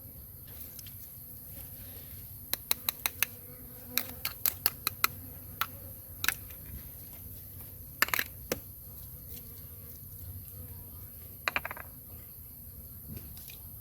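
Insects droning steadily at a high pitch, with scattered sharp clicks and taps over it. A quick run of clicks comes about three to five seconds in, and another cluster around eight seconds.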